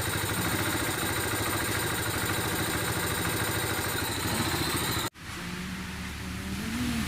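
Kawasaki Barako 3 Fi single-cylinder four-stroke engine idling steadily after its idle-speed screw has been set, meant to settle at about 1700 rpm. The sound cuts off suddenly about five seconds in, then a quieter steady hum follows.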